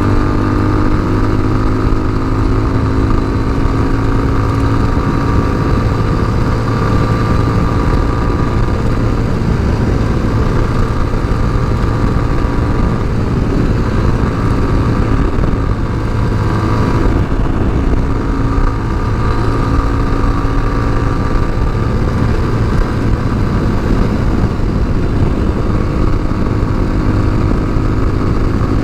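Tao Motor TBR7 dual-sport motorcycle engine running under way, its pitch holding fairly steady and drifting gently up and down with speed.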